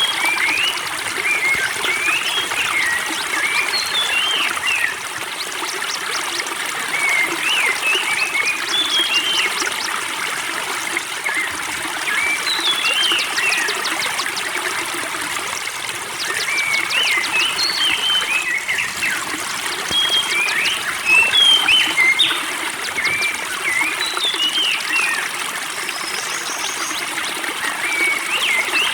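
Spring water trickling and babbling steadily, with small birds chirping and twittering in short, quick notes throughout.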